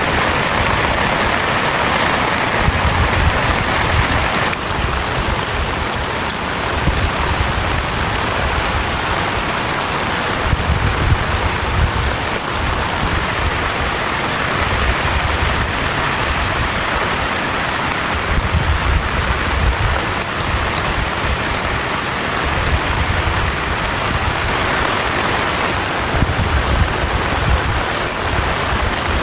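Heavy rain falling steadily, with low gusts of wind rumbling in every few seconds.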